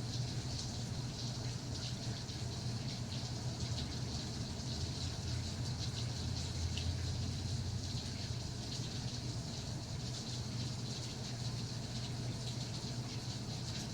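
Steady rain falling: an even hiss dotted with many small drop ticks, with a steady low hum underneath.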